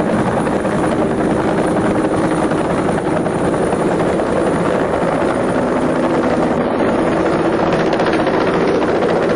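Helicopter running loudly and steadily, the rotor and engine noise heard close up.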